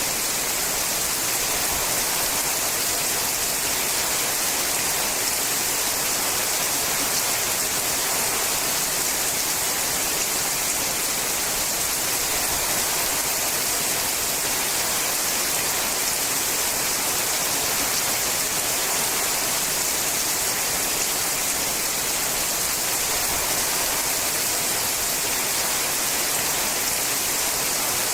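Steady rain falling on a sheet-metal roof, an even, unbroken hiss.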